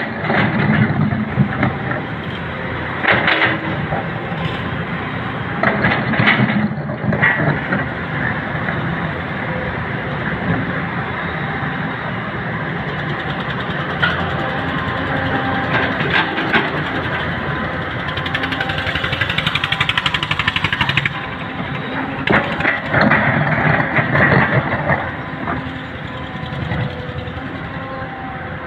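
Heavy diesel machinery running steadily: an excavator working a load of soil into a dump truck. Short loud clanking, scraping bursts come every few seconds, and a fast, even rattle runs for about three seconds past the middle.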